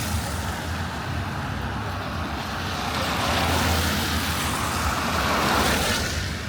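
Road traffic on a wet road: tyres hissing through surface water over a low engine hum, with one vehicle growing louder through the second half and fading just before the end.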